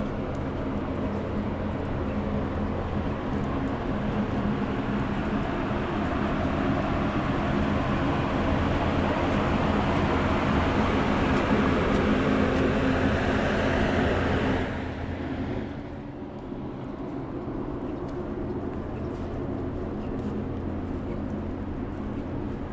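A vehicle engine running nearby with a steady low hum, under a rush of traffic noise that builds and then cuts off abruptly about fifteen seconds in, leaving the hum.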